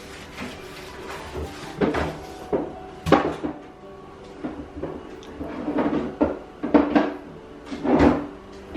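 Irregular knocks, bumps and scrapes of things being handled and set down, like cupboard doors and objects being moved about.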